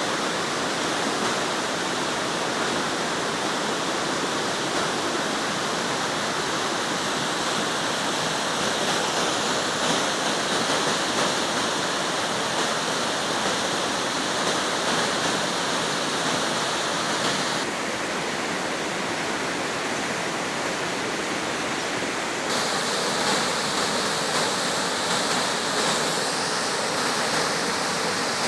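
Water rushing steadily over a waterfall, a dense unbroken roar. Its tone shifts abruptly twice, about two-thirds of the way through and again a few seconds later.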